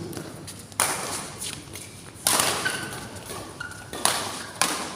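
Badminton rackets hitting a shuttlecock in a rally: four sharp smacks, the first three a second and a half to two seconds apart and the last two in quick succession, each followed by a short echo.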